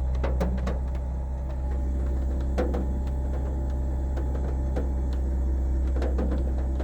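Car engine running at a steady speed while warming up, a deep even drone, with scattered light ticks over it.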